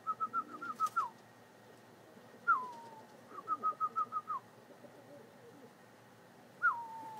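A whistled call repeating about every four seconds: a falling slurred whistle, then a quick run of about seven short even notes ending in a drop. Faint low pigeon cooing underneath.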